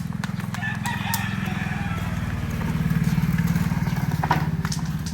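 A small motorcycle-type engine running steadily, getting louder about three seconds in, with a rooster crowing over it.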